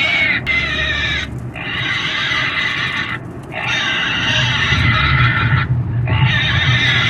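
Pig squealing over and over: long, loud, high-pitched screams of about one and a half to two seconds each, broken by short pauses for breath, the squeals of a frightened pig.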